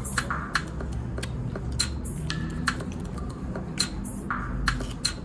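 Close-up eating sounds: chewing, with irregular sharp wet mouth clicks over a low steady hum.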